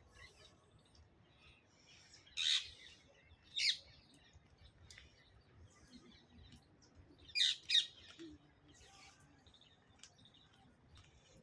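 A green parrot calling in short, shrill, high-pitched squawks: one loud call about two seconds in, another a second later, then a quick pair of calls later on, with fainter chirps in between.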